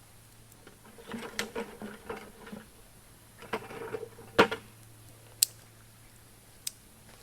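Handling of cooking gear and food: two short stretches of rattling and knocking, then a few single sharp clicks, the loudest a knock about four and a half seconds in.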